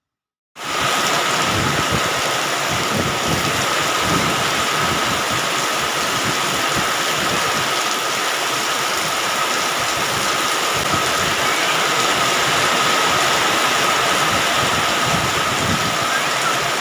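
Heavy rain falling steadily, starting abruptly about half a second in, with a thin steady whine underneath.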